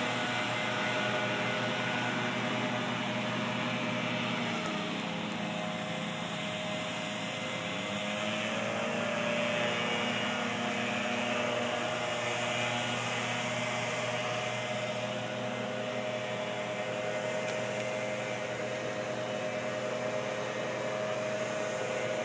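Steady mechanical hum with hiss and a few held tones; the pitch slides upward once, about five to eight seconds in, then holds.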